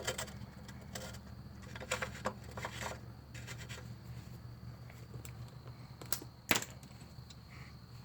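Scattered light clicks and knocks of hand tools and metal parts being handled on a lawn mower engine during reassembly, with a sharper knock about six and a half seconds in, over a steady low hum.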